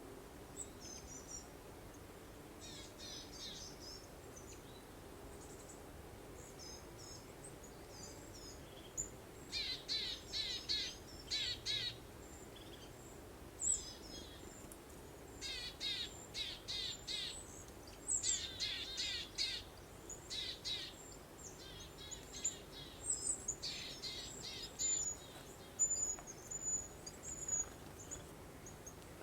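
Songbirds singing: faint scattered chirps at first, then from about a third of the way in, repeated runs of rapid high chirps and trills, with a thin high whistle near the end. Underneath is a faint steady background hiss.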